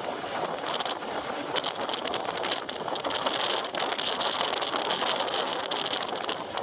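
Wind rushing over the microphone of a moving bike, with a high steady hiss that comes and goes and holds steadier in the second half.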